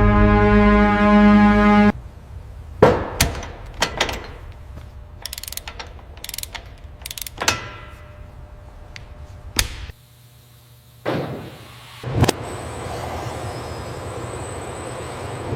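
Brass music cutting off about two seconds in, followed by a series of sharp mechanical clicks and clunks, like tools or car parts being handled. Near the end comes a steady noise with a faint high whine.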